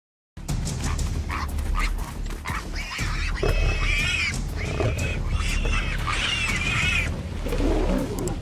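Warthog squealing in several rising-and-falling cries over a steady low rumble, starting suddenly about half a second in.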